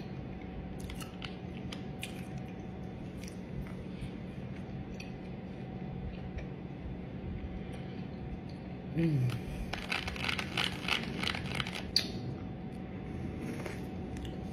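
Mouth sounds of eating a fried soup dumpling: quiet chewing, a short falling "mm" about nine seconds in, then a run of wet crackling clicks over a faint steady hum.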